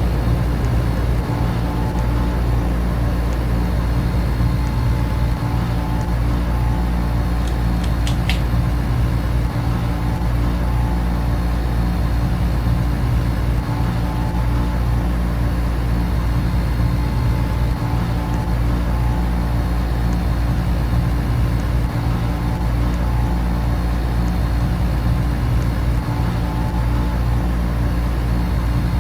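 Air conditioner and electric fans running together, a steady low hum under an even rush of air noise.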